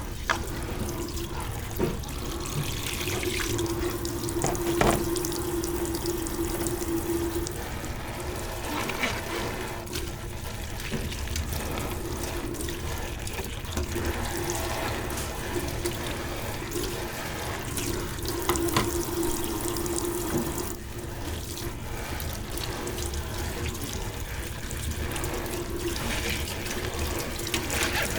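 Kitchen sink tap running while dishes are washed under it, with a few sharp clinks of dishes.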